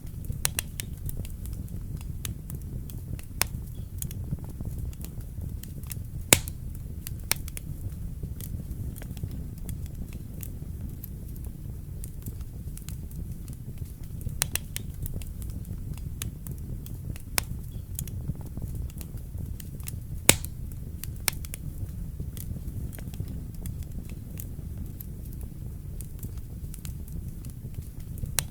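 Wood fire burning in a fireplace: a steady low rumble of flames with frequent sharp crackles and pops, two of them much louder than the rest.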